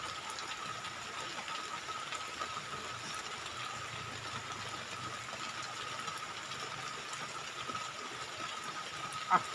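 Steady hiss of heavy rain, with a constant high-pitched whine running through it.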